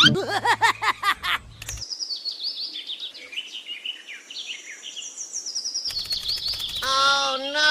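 Birds chirping and singing in a rapid run of high, quick chirps and trills. Near the end a wavering pitched tone joins in.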